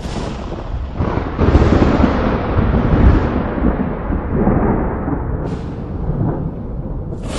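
Thunder: sudden cracks at the start and about a second in, then a long rolling rumble that is loudest two to three seconds in and slowly dies down. A brief sharp crack comes later, and a new clap begins near the end.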